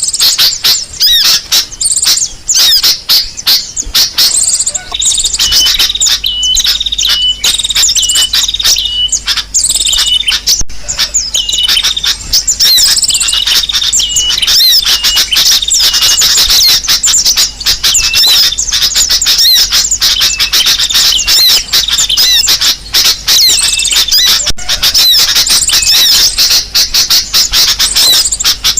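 Bird-lure recording of sunbird calls (kolibri sogok ontong) mixed with sooty-headed bulbul song: loud, dense, rapid high-pitched chirps and trills without pause. From about five to ten seconds in, a short whistled note repeats about twice a second.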